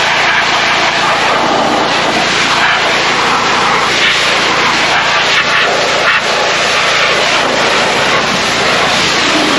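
Tractor engine running steadily, a loud, even mechanical noise with no clear pitch.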